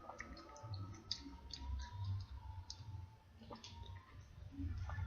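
Faint, scattered clicking mouth sounds with soft low thuds: a person chewing and struggling to swallow a piece of boiled onion.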